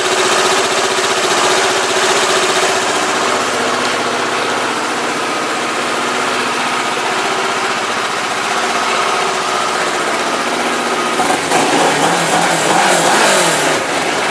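2009 Kawasaki ER-6n's 649 cc parallel-twin engine idling steadily, then revved up and down a few times near the end.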